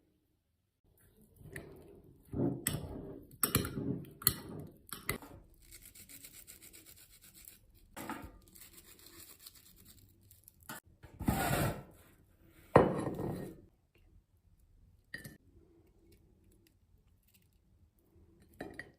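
Food-preparation handling sounds: irregular scraping and rasping, as on crusty bread, with several sharp knocks of utensils or food against a board or plate, the loudest about two-thirds of the way in.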